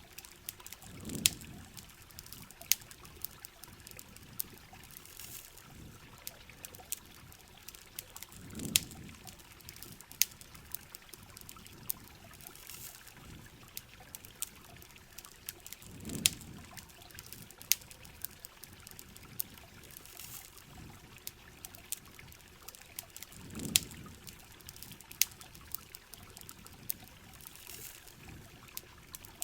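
Layered ambience of steady rain and trickling water with frequent sharp campfire crackles and pops. A low, swelling water gurgle comes back about every seven and a half seconds, four times.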